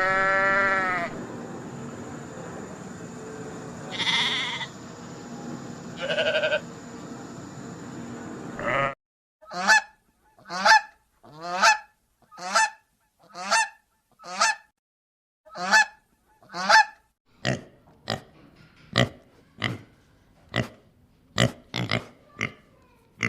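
Goose honking repeatedly, short loud honks about one a second that quicken to nearly two a second near the end. Before them come a few drawn-out animal calls over a steady background hiss, which stops abruptly about nine seconds in.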